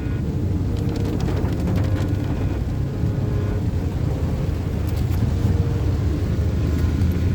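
Hyundai Eon driving through heavy rain: a steady low rumble of engine and tyres on the wet road, with scattered sharp clicks of raindrops striking the car.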